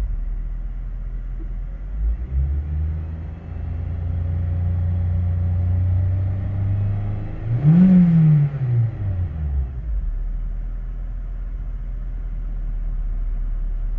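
2002 Acura RSX Type-S's 2.0 L DOHC i-VTEC four-cylinder engine running. It idles, rises to a steady higher rpm about two seconds in, is blipped up once sharply past the middle, then drops back to a steady idle.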